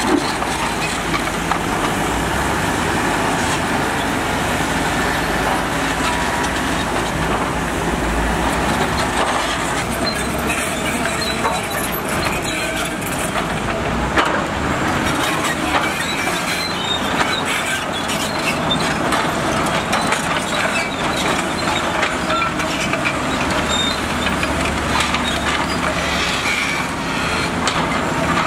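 Heavy earthmoving machinery at work: diesel engines running steadily, with frequent metallic clanks and knocks.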